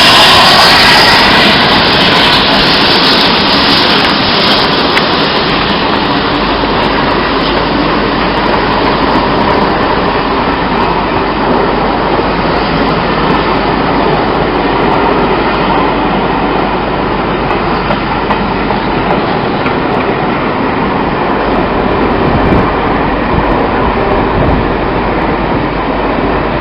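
A train passing close by on the line: a dense, steady running noise, loudest in the first second or two, with some clickety-clack of wheels over the rail joints.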